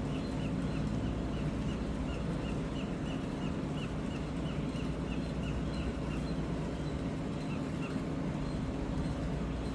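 A bird peeping over and over, short high calls about three a second, that stop about eight seconds in, over a steady low hum.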